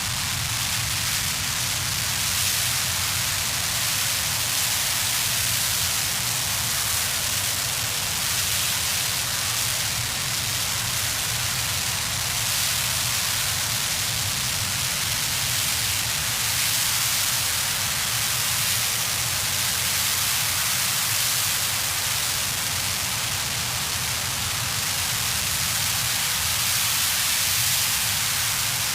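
RS-25 liquid-hydrogen rocket engine firing steadily on a test stand: an unbroken hissing rush with a low rumble beneath it, never changing in level.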